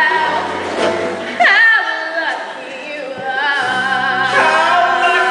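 Music: singing with vibrato over instrumental accompaniment, with a low held accompaniment coming in about three and a half seconds in.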